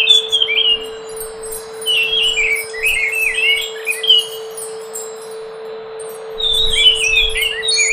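Scaly thrush (anis macan) singing in three bouts of quick warbled phrases, at the start, in the middle and near the end, over a steady low hum.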